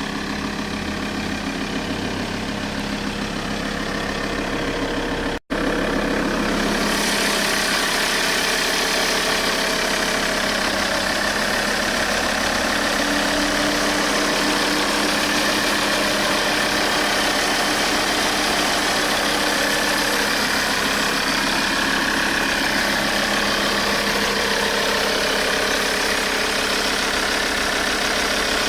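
Alfa Romeo 159 2.4 JTDM five-cylinder turbodiesel idling steadily. The sound cuts out for an instant about five seconds in and comes back brighter.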